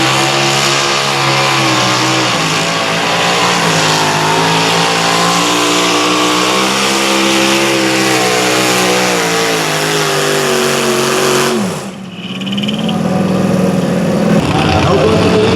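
Competition pulling tractor's engine running hard at high revs under load, its pitch wavering up and down. About three-quarters of the way through it breaks off abruptly and another engine comes in, rising steadily in pitch.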